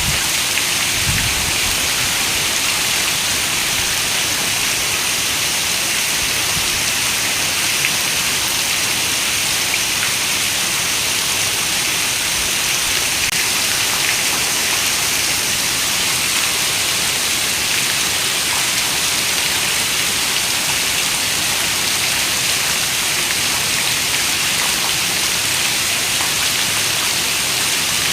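Heavy rain falling steadily on a window, a dense, even hiss of drops that holds constant throughout. A brief low thump sounds about a second in.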